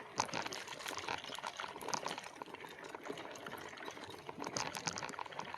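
Ice water sloshing in a bottle on a moving e-bike, with many irregular clicks and clinks.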